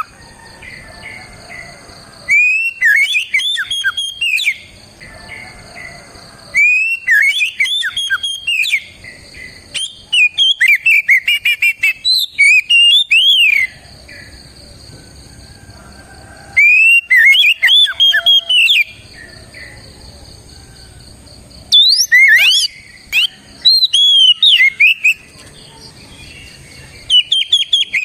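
Oriental magpie-robin (kacer) singing loud, full whistled song in phrases that glide up and down, delivered in about six bursts of two to four seconds with short pauses between them.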